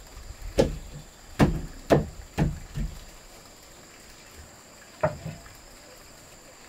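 Knocks of wood being struck: five in quick succession, then one more about two seconds later.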